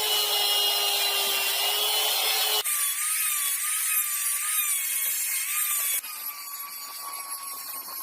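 Electric power tool grinding or cutting metal: a motor whine that wavers under load over a harsh rasping hiss. The sound changes abruptly twice, like cuts between takes.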